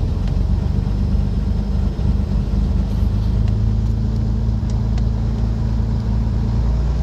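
Twin piston engines of a Cessna 310 running steadily at low taxi power, a steady low drone heard from inside the cabin.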